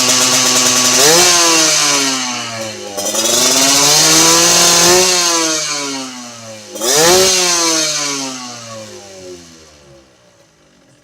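Motorcycle engine revved through an aftermarket racing exhaust: held at high revs, then the revs rise and fall three times, the last a sharp blip about seven seconds in, before dropping away and fading near the end.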